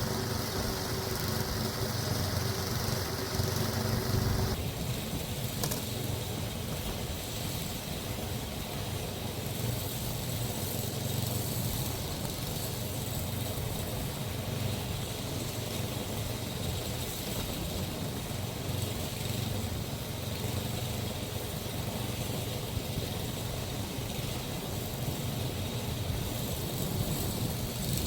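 An engine running steadily. About four and a half seconds in, a higher tone and hiss stop suddenly, leaving the low hum.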